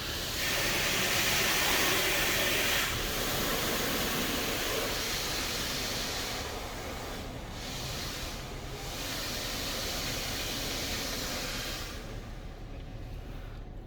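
High-pressure jets of a touchless car wash passing over the car, heard from inside the car as a loud steady hiss. It rises sharply about half a second in, dips briefly twice as the jets move, and falls away near the end.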